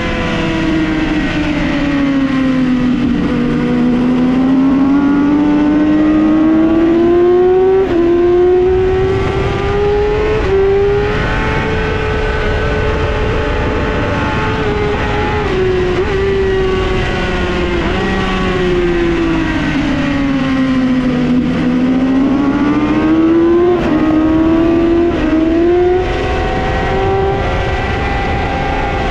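A 2008 Yamaha R6's 600cc inline-four running hard on a race track, its pitch climbing through several quick upshifts. Twice the revs fall away under braking and downshifts before it pulls hard again.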